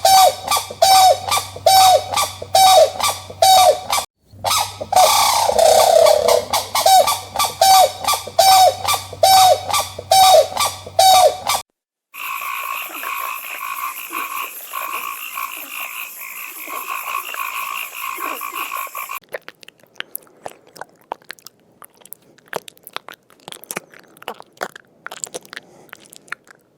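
Animal calls repeated rapidly, about two a second, for the first half, with a short break about four seconds in. Then a steady buzzing chorus, and near the end faint scattered crackling.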